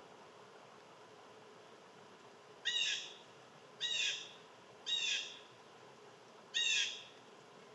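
A bird calling four times, beginning about two and a half seconds in. Each call is short, pitched and ringing, and drops slightly in pitch.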